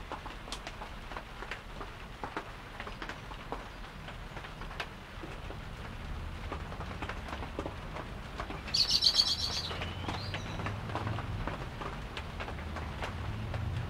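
A small bird gives one loud, rapid chirping trill about nine seconds in, lasting about a second and ending in a short gliding note, over a steady patter of raindrops.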